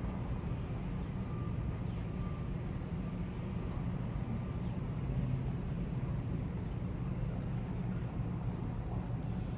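Steady low rumble with a fainter hiss above it, the running noise of a large cruise ship under way.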